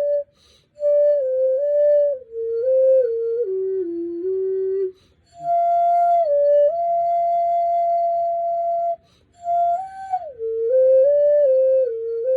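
Seven-star xun in F, a vessel flute, playing a slow melody solo and unaccompanied. It moves note by note in phrases, with short breath pauses about half a second, five seconds and nine and a half seconds in.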